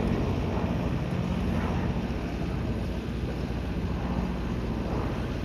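P-38 Lightning's twin Allison V-12 engines droning steadily and slowly fading as the plane draws away, with wind on the microphone.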